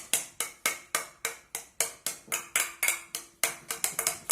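A knife chopping boiled egg into small pieces against a hard surface, in quick even strokes of about four a second.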